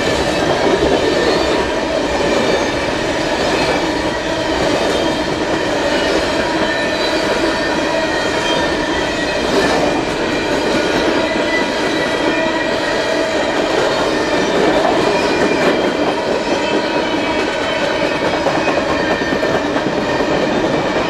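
A train of empty steel coal cars rolling past at speed: a steady, loud rumble and rattle of wheels on rail, with thin steady ringing tones from the wheels running through it.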